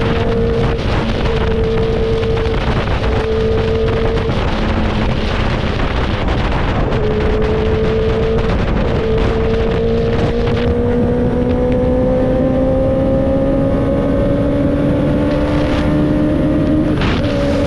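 Motorcycle engine running at road speed under heavy wind rumble on the microphone. Its note holds steady, then climbs slowly through the second half.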